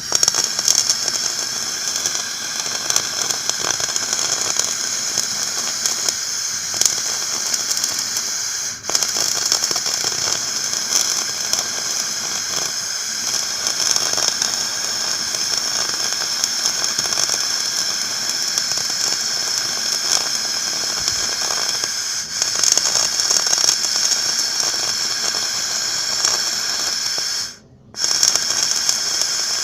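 Electric arc welding on a broken metal kick scooter: a steady crackling sizzle of the arc. It dips briefly twice, then stops for about half a second near the end before the arc is struck again.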